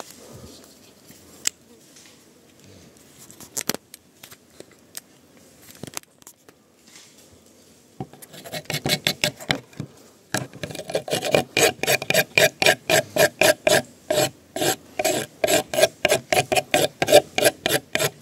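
Fast back-and-forth rasping strokes on wood, about four to five a second. They start faintly about eight seconds in and get louder and steadier from about ten seconds on, after a few scattered knocks.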